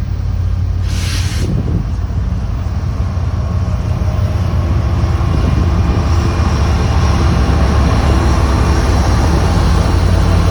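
Diesel locomotive engine running, a steady low drone that slowly grows louder. A short hiss comes about a second in.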